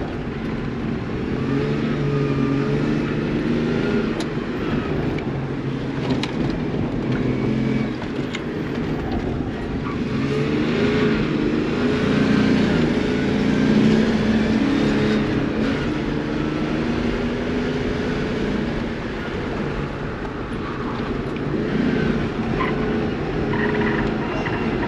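Engine of a car being driven hard round an autocross course, its pitch climbing and dropping again and again as it accelerates and lifts between corners.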